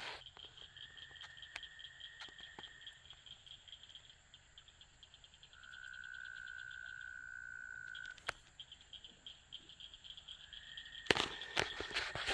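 Night chorus of frogs and insects: long, even trills lasting a few seconds each, one higher-pitched and one lower, over a fast pulsing chirp. A few sharp clicks, and a burst of clicking and rustling near the end.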